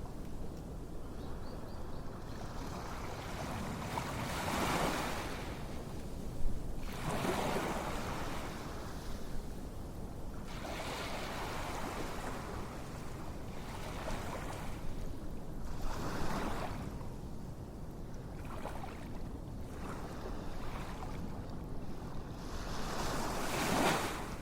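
Ocean waves washing in, a rushing swell rising and falling every few seconds, with a single sharp click about six seconds in.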